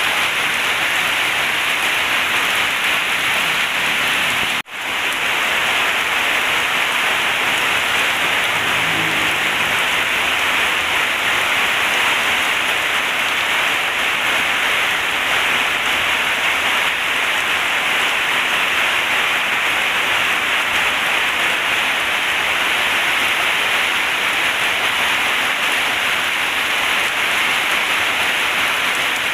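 Heavy rain falling in a steady downpour, an even hiss that briefly cuts out for a split second about four and a half seconds in.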